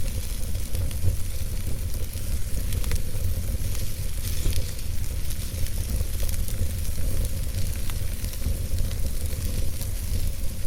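Wood fire burning in a fireplace: scattered small crackles and pops over a steady hiss and a low rumble.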